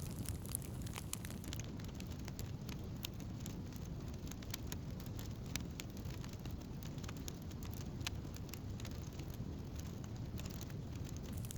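Wood campfire burning and crackling: irregular sharp pops and snaps over a steady low rumble.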